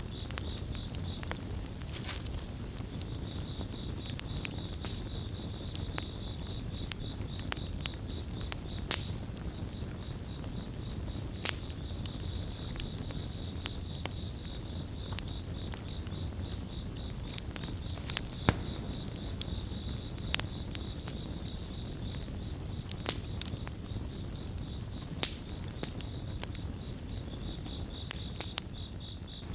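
Wood campfire crackling, with sharp irregular pops over a low steady rumble. A cricket chirps in a high pulsed trill that pauses briefly several times.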